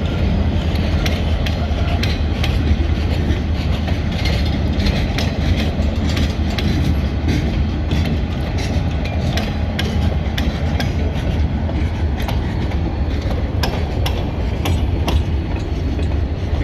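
Freight train cars rolling past at a grade crossing, with their wheels clicking repeatedly over the rail joints above a steady low rumble.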